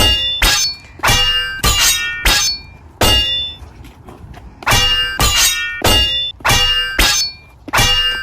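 Metal striking metal again and again: about a dozen loud clangs, each ringing briefly at the same pitch, coming in quick irregular succession with a pause of a second or so midway.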